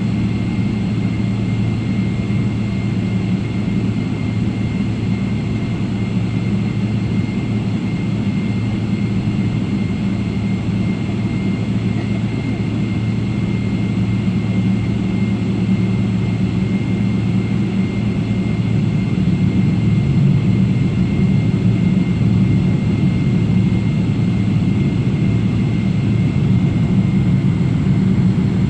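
Boeing 777 airliner's jet engine noise: a steady drone with a deep hum and a faint high steady whine, growing slightly louder about two-thirds of the way through.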